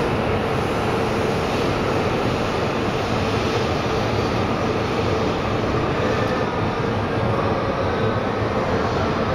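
E5 series Shinkansen train running past the platform as it pulls into the station: a steady rush and rumble of wheels on rails, with a steady hum under it.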